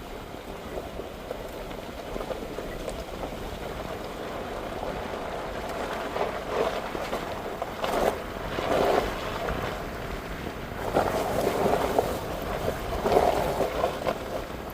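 Wind buffeting the microphone over the steady noise of a pickup truck driving, with gusts swelling louder several times in the second half.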